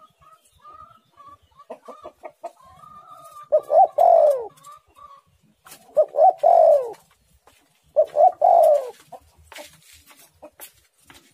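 Spotted dove (tekukur) cooing: softer repeated notes at first, then three loud calls about two seconds apart, each two short notes followed by a longer falling coo. A few sharp clicks near the end.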